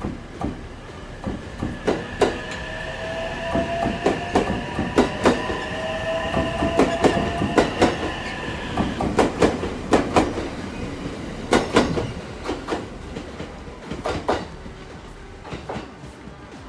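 Electric limited express trains pulling out of a station, wheels clacking sharply and irregularly over rail joints and points. For the first half a whine rises slightly in pitch and then fades out; the clacking thins out near the end.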